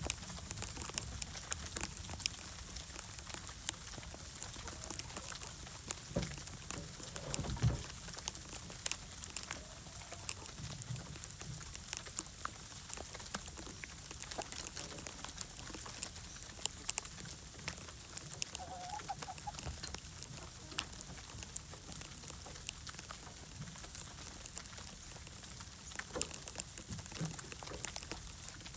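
Hens clucking softly now and then over a steady patter of fine ticks, with a dull low thump once, a few seconds in.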